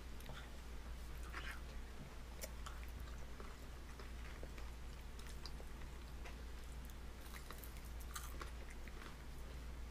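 A baby chewing and mouth-smacking on soft food, a scatter of faint wet clicks over a steady low hum.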